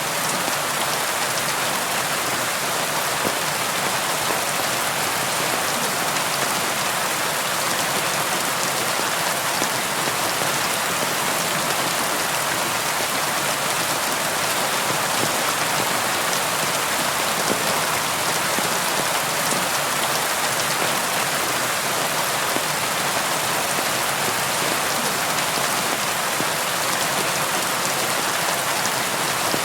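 Steady rain falling: a dense, even hiss of many drops, unchanging throughout.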